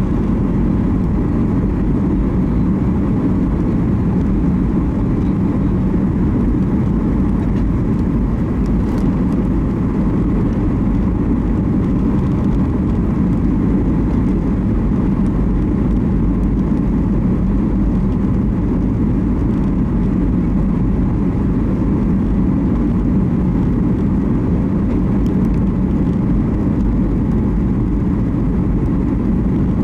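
Steady drone of an airliner cabin in flight, with engine and airflow noise heard from inside the cabin during the descent before landing.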